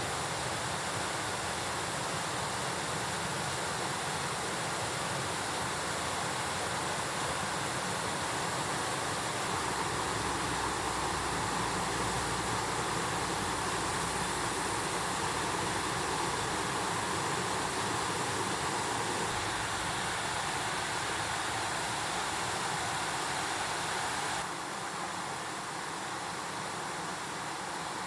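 Mountain stream rushing over rocks: a steady wash of water noise that drops slightly in level near the end.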